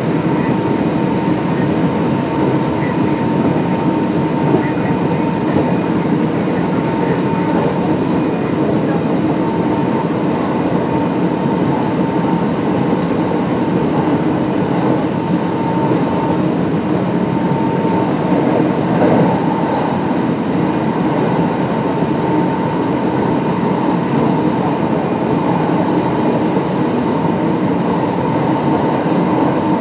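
Kintetsu 1259 series electric train running at speed between stations, heard from inside the car: a steady rumble of wheels on rail with a steady whine over it.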